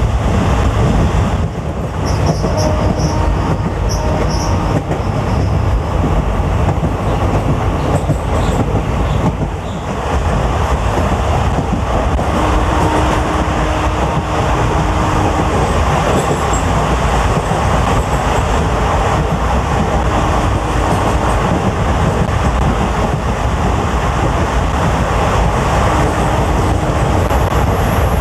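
Passenger train running along the line: a steady rumble of wheels on the track, with a faint squeal that comes and goes.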